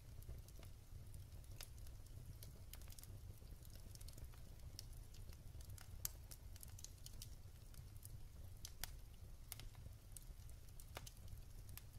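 Wood fire in a fireplace crackling softly: scattered, irregular sharp pops and snaps from the burning logs, the loudest about six seconds in, over a faint steady low rumble.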